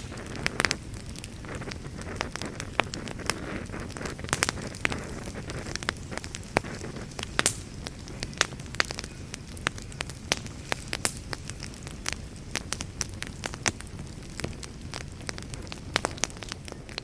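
Campfire burning with frequent irregular sharp pops and crackles over a steady low rumble and hiss of flames.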